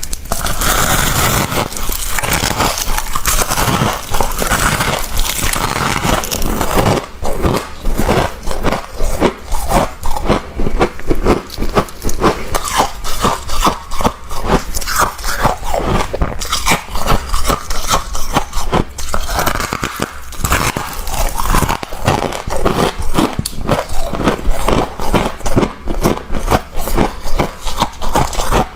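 Freezer frost being crunched and scraped up close: a continuous run of crisp, irregular crunches, several a second.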